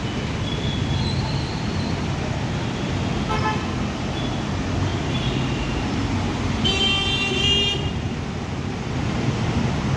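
Road traffic running steadily with a low rumble, and a vehicle horn sounding for about a second a little past the middle; a shorter, fainter horn comes earlier.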